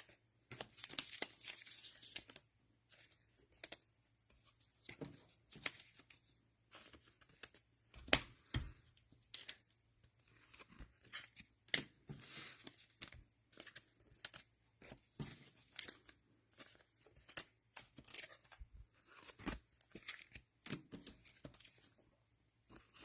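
Trading cards and plastic wrappers being handled at close range: scattered soft rustles, crinkles and small taps, with one sharper tap about eight seconds in.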